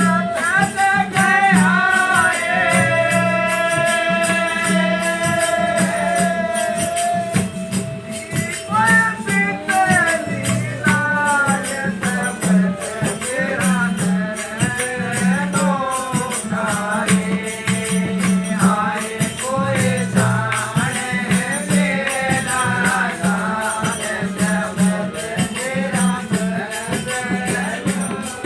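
Devotional bhajan music: a voice singing a melody, holding one long note near the start, over a steady drum beat and continuous jingling rattle-type percussion.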